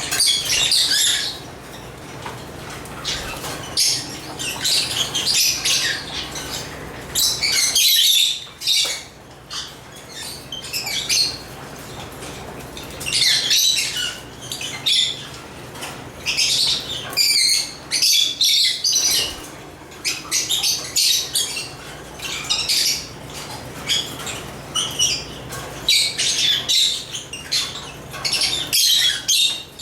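African lovebirds (Agapornis) chirping in rapid, high-pitched bursts that come in clusters a second or two long, with short lulls between them.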